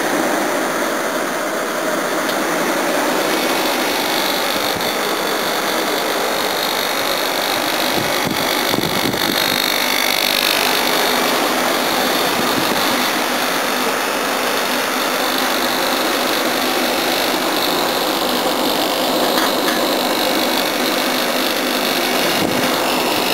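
Old air conditioner running on cool, its fan blowing and its compressor running with a steady noise. The compressor is a bit noisy, which the owner puts down to the unit having lain on its back, so the compressor oil has not yet settled back where it belongs.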